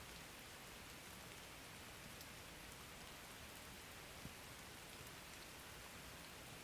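Faint, steady rain with scattered drop taps, and one small tap a little over four seconds in.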